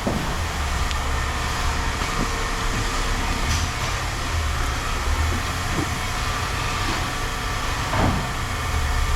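Steady low rumble of a vehicle engine running, with a few faint knocks, one near the end.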